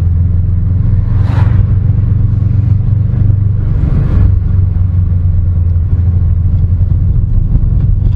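Car engine droning steadily at cruising speed with road rumble, loud and low; two brief whooshes come about one and four seconds in.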